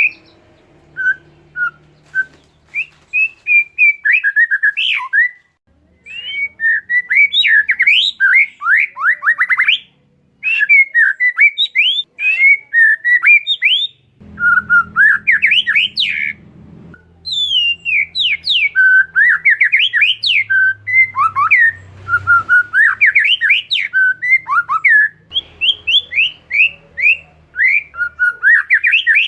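Oriental magpie-robin (kacer) singing a fast, varied song of clear whistles and rapid down-sweeping chattering notes, broken by a few short pauses.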